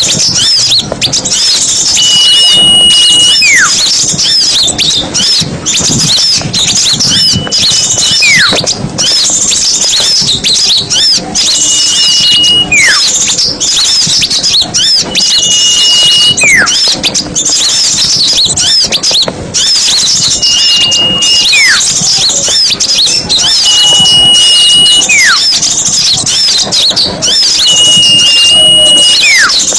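Bird-luring recording of many small songbirds calling at once: a dense, unbroken chatter of high chirps and trills. About every four seconds a held high whistle is followed by a quick downward-sliding whistle.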